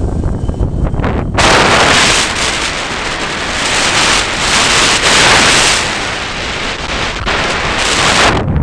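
Strong gusty wind buffeting the microphone: a constant low rumble, with a loud rushing hiss that starts suddenly about a second and a half in and cuts off just before the end.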